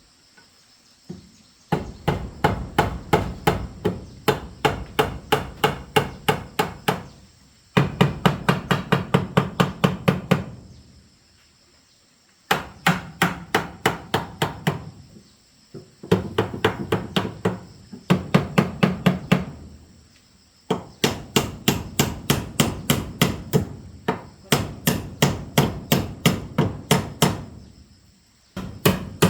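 Hammer blows, struck in quick runs of about three a second with short pauses between the runs.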